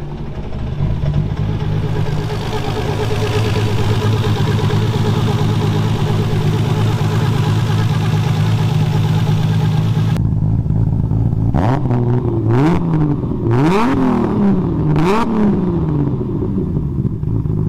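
Built 2.8-litre RB26 straight-six of a 1000 hp Nissan Skyline R33 GT-R running at a loud, steady idle that sounds so angry, then revved three times, the pitch rising and falling with each blip about a second and a half apart.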